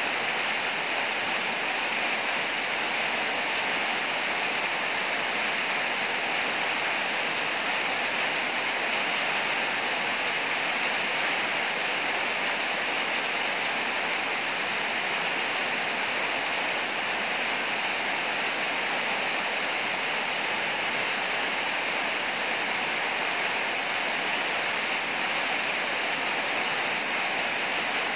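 Heavy rain falling steadily, an even hiss without breaks or single impacts.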